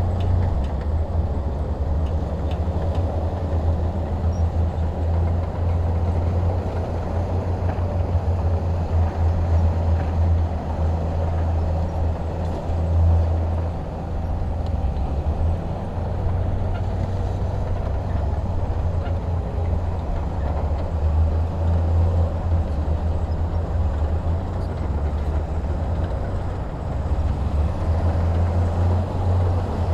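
Heavy diesel engine running steadily at a constant low pitch.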